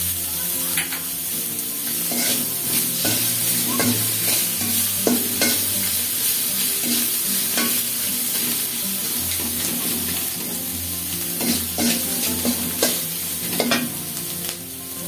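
Ground spice paste and chopped green chillies sizzling in oil in an aluminium karahi, stirred and scraped around the pan with a metal spatula, which scrapes and taps at irregular moments over a steady sizzle. This is the masala being fried down (koshano) until cooked.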